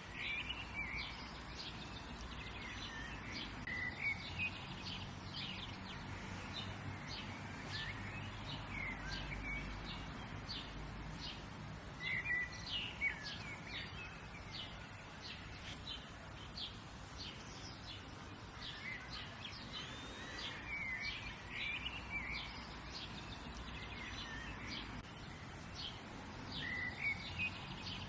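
Several small birds chirping and calling, with many short chips and a few brief warbled phrases, over a steady low background rumble.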